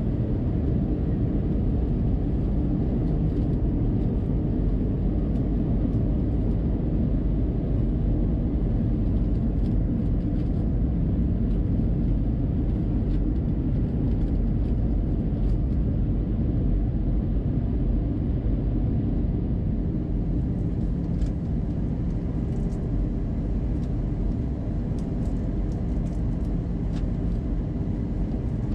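Steady in-flight rumble of an Airbus A320 inside the passenger cabin, from its engines and the air rushing past. It eases slightly about twenty seconds in, and a few faint clicks follow.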